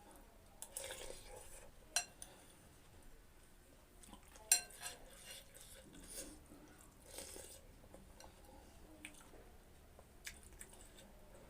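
Eating utensils clinking against a bowl of noodle soup: a few sharp clinks, the loudest about four and a half seconds in, with softer handling noises between.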